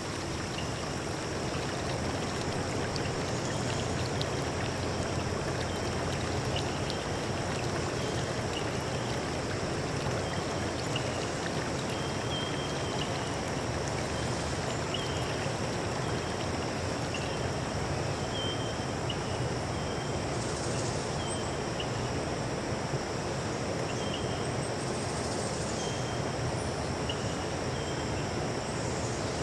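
Forest stream running steadily, with a constant high-pitched insect drone and short chirps repeating every second or so.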